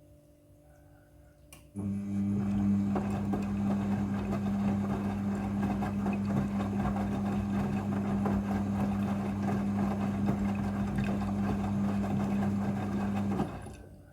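Midea front-loading washing machine switching on a motorised water stage: a steady electric hum over rushing water, starting about two seconds in and stopping abruptly near the end.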